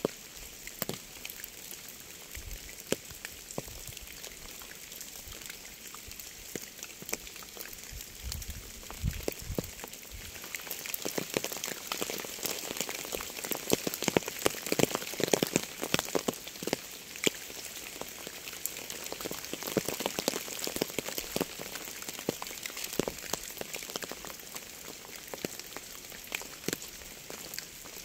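Rain falling, with many individual drops tapping close by. It grows heavier about a third of the way in and eases a little toward the end.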